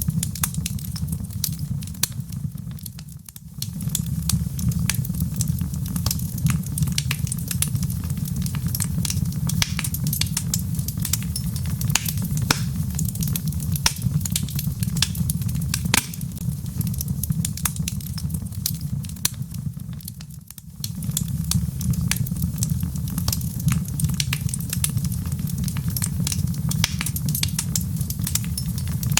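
Wood fire burning in a fireplace: dense, irregular sharp crackles and pops over a steady low rumble of flame. The sound dips briefly twice, about three seconds in and again about twenty seconds in.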